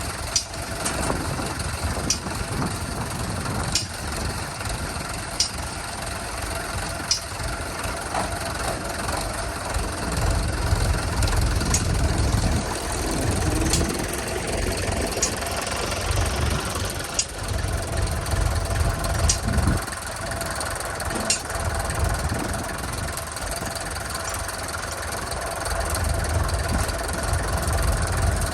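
An engine running steadily with a low rumble, and a sharp click or knock recurring about every one and a half to two seconds.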